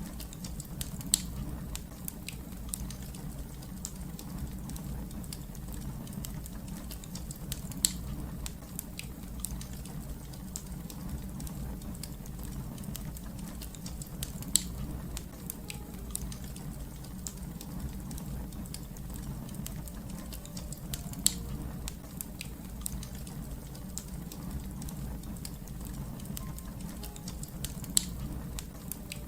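Wood fire crackling: a steady low rumble of burning with frequent small crackles and five louder pops, evenly spaced about seven seconds apart.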